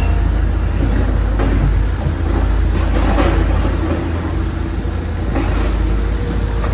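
Construction-site noise: heavy machinery engine running steadily with a deep low rumble, with a few brief swells of clatter and hiss over it.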